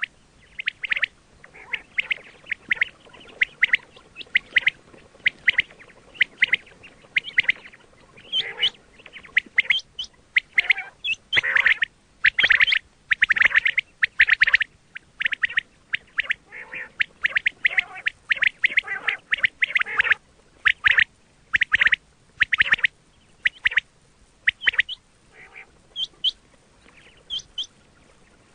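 Quail calling: a rapid, irregular run of short, high calls, about two a second, loudest around the middle and thinning out near the end.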